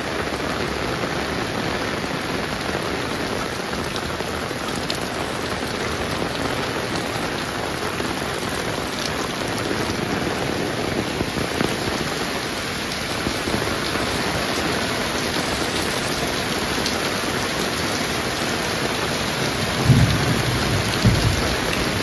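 Heavy rain falling steadily in a thick, even hiss. Near the end come two brief low thumps.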